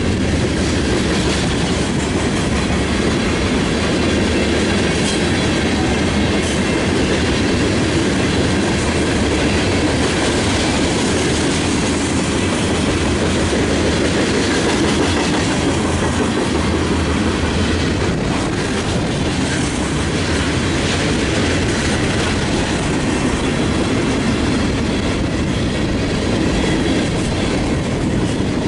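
Loaded freight cars of a mixed freight train rolling past close by: a steady noise of steel wheels on rail, with occasional sharp clicks as the wheels cross rail joints.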